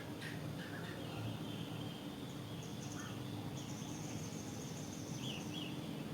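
Small birds chirping, with a long high thin trill about midway and two quick falling chirps near the end, over a steady low rumble.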